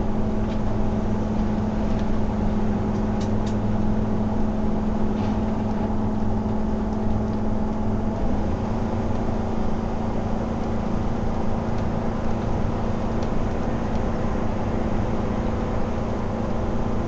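Steady engine and road drone of a vehicle driving at speed, heard from inside the cabin. A steady hum runs through it and steps slightly up in pitch about eight seconds in.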